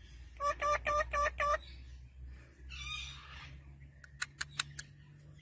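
Parrot chick giving a quick run of about six short, even, nasal begging calls, then a single rougher call; a few sharp clicks follow near the end.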